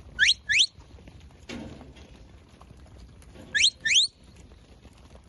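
Shepherd's command whistle to a working sheepdog: two quick rising whistle notes at the start, and another pair about three and a half seconds in.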